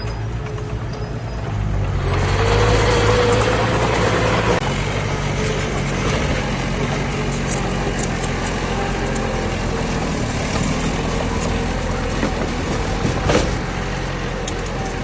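Heavy diesel earthmoving machine engine running steadily. It grows louder about two seconds in, and there is a single sharp knock near the end.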